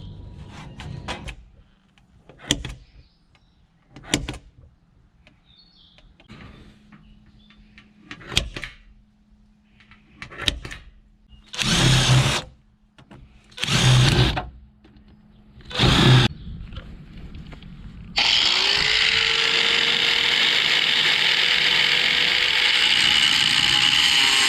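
Scattered knocks and clicks of metal parts being handled, then a handheld power tool triggered in three short bursts of about a second each. About two thirds of the way through it starts and runs steadily, its motor spinning up as it starts.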